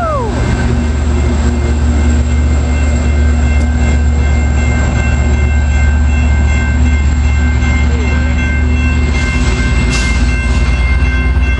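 San Diego Green Line light-rail trolley running past close by: a steady heavy low rumble with a few constant high whining tones over it.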